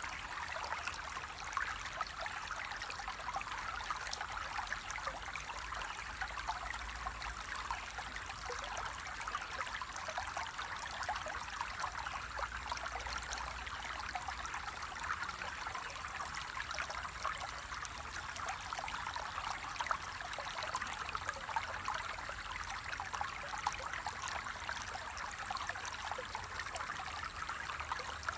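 Water flowing steadily over rocks in a stream, a continuous babbling and trickling.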